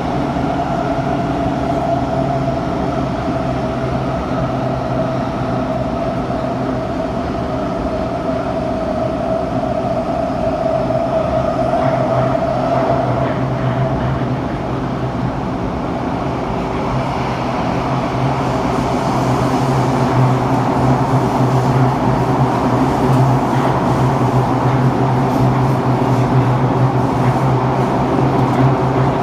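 Interior running noise of a Kawasaki-Sifang CT251 metro train between stations: a steady whine that fades out about halfway through, then wheel-on-rail noise growing louder as it runs on. The set has flat wheels, which give the ride a pounding rumble.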